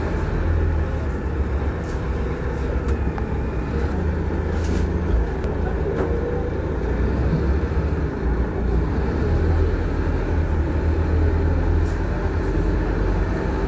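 Scania K230UB single-deck bus heard from inside while under way: a steady low rumble of the engine and road, with a few brief knocks and rattles of the body and fittings.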